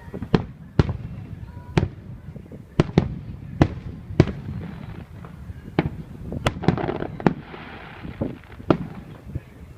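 Fireworks show: aerial shells bursting in an irregular series of about a dozen sharp bangs, with a stretch of hiss about seven seconds in.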